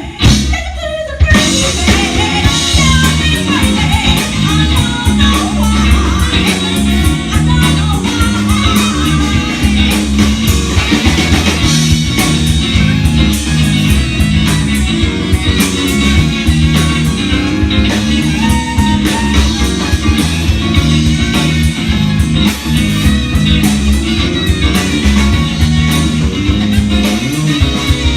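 Rock band playing a song with guitar, bass and a steady drum beat, and a singing voice.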